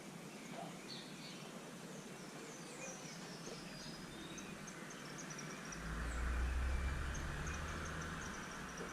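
Small birds chirping in short, high notes, with a quick run of chirps over the second half. A low rumble swells about two-thirds of the way in and is the loudest sound.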